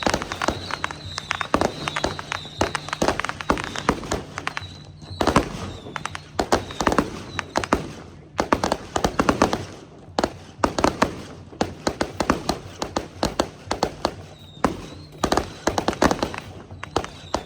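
Strings of firecrackers going off in rapid, irregular cracks, in dense runs broken by short lulls.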